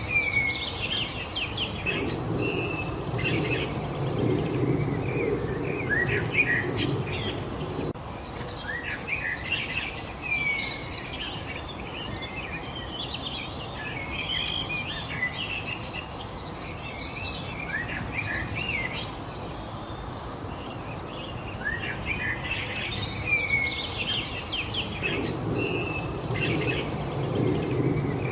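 Several songbirds chirping and singing at once, a steady overlapping chorus of short tweets and quick down-slurred notes. Beneath it runs a low background rumble that swells about two seconds in and again near the end.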